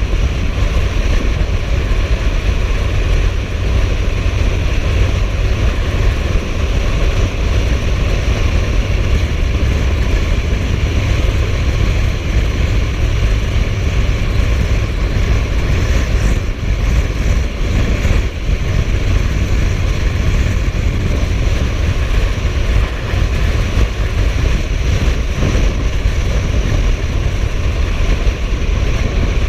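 Suzuki GSF1250S Bandit inline-four motorcycle cruising at a steady speed, its engine a constant low rumble under wind rushing over the microphone.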